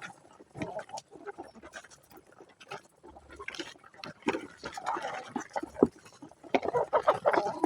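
Irregular animal calls mixed with short clicks, sparse at first and busier from about four seconds in.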